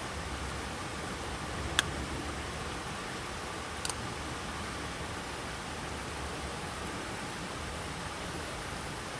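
Steady rushing noise with two sharp snaps about two seconds apart, the second a quick double.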